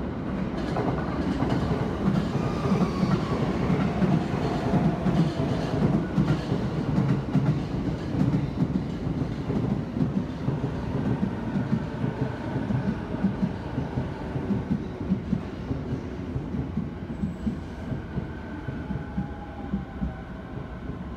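Commuter trains at a station platform. An E217-series Yokosuka Line train runs in on the adjacent track with rumbling wheels and rail-joint clatter. In the second half the E231-series train beside the platform moves off, with a faint electric motor whine.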